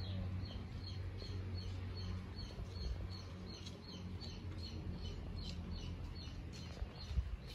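Small birds chirping, a quick run of short high chirps repeating a few times a second, over a low background hum.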